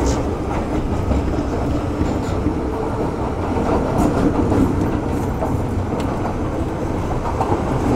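Metro-Cammell M-Train motor car running along the track, heard from inside the car: a steady rumble of wheels on rails, with a few sharp clicks around the middle.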